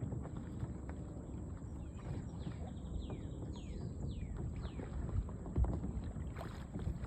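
Water sloshing and a person moving against a kayak while climbing onto it from the water, with a thump about five and a half seconds in. Steady wind noise on the microphone throughout, and a run of short, high, falling calls in the middle.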